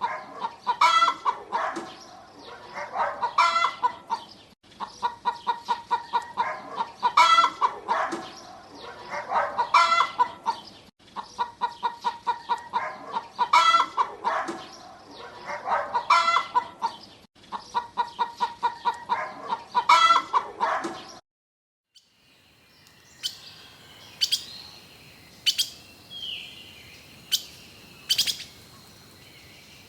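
Hens clucking in short runs of calls, the same stretch repeating about every six or seven seconds with brief breaks. About two-thirds of the way through it cuts to a moment of silence, then sharp, separate bird chirps over a steady high whine.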